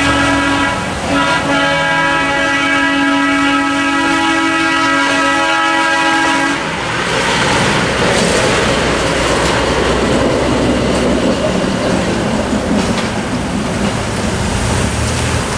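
Locomotive horn sounding one long, steady chord for about six and a half seconds, then giving way to the steady rumble of the passing train.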